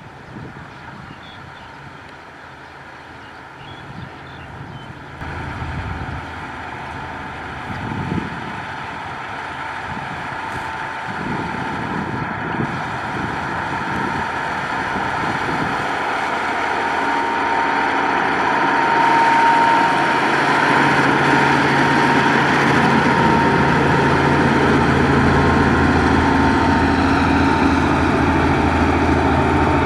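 Caterpillar 140H motor grader's diesel engine running and growing steadily louder as the machine draws near, with a steady whine on top.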